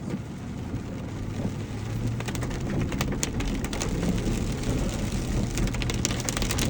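A 4x4 truck's engine running at low speed while it drives on, with a scatter of sharp crackles and clicks from about two seconds in.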